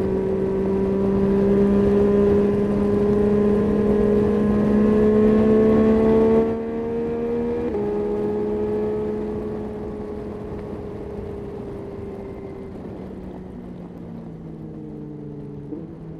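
Yamaha Tracer 9's three-cylinder engine pulling under throttle, its pitch slowly rising, then the throttle shuts off sharply about six and a half seconds in. After a gear change the engine speed winds down, with a couple more downshifts near the end.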